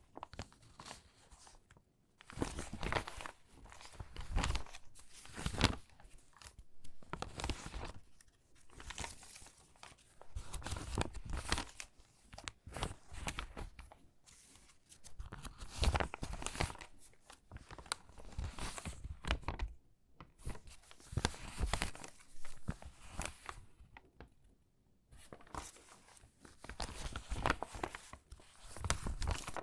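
Stiff, crinkly water-damaged magazine pages being handled and sorted, crackling and rustling in repeated bursts with short pauses between them.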